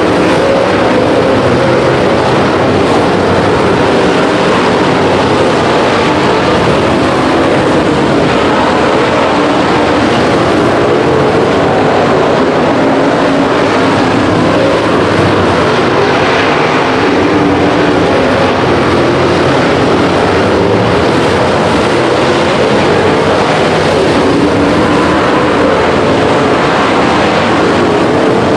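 Several dirt-track race cars running at speed around the oval, a loud steady blend of engine noise that wavers in pitch as the cars go round.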